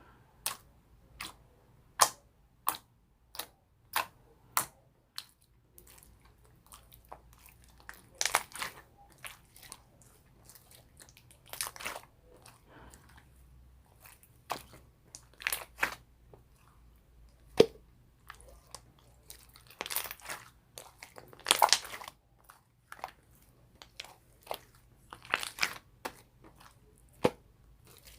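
Irregular crisp crunching and clicking. Single sharp clicks come about every half second to second in the first few seconds, then longer crackly bursts recur every few seconds, with one sharp click standing out near the middle.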